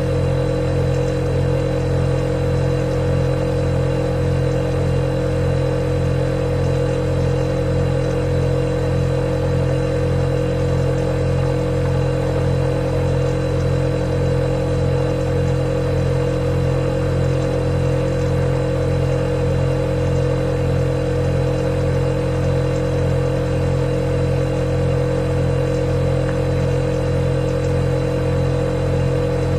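Refrigerator running: a steady, unchanging compressor hum with a few fixed tones and a faint high whine.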